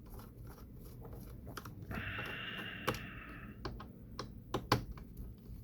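Screwdriver clicking and tapping against small screws while unscrewing a computer fan assembly, with a short high whir lasting about a second and a half, starting about two seconds in.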